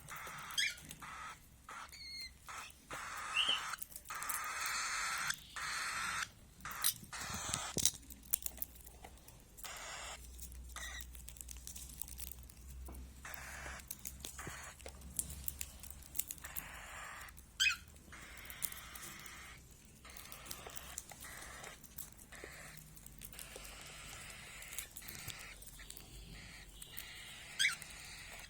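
Pet cage birds giving short high chirps now and then, over steady rustling and scattered small clicks.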